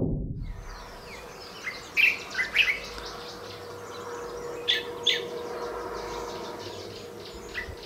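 Birds chirping: several short, sharp calls in two clusters, about two seconds in and again near five seconds, over a faint steady outdoor background with a thin steady hum.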